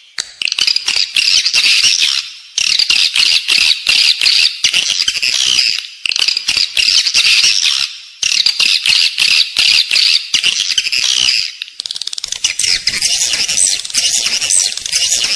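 Edible-nest swiftlets twittering: a dense, high-pitched chatter of chirps and clicks in runs of about two seconds, with brief breaks between them. This is a swiftlet lure call, of the kind played inside a swiftlet house to draw the birds in to roost and nest.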